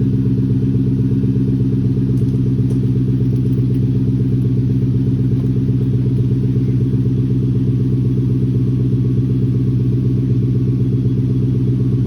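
Lexus LS430's 4.3-litre V8 idling steadily after a cold start, with its mufflers deleted so the exhaust comes straight from the resonators out of 4-inch tips. The note is low and even, with no revving.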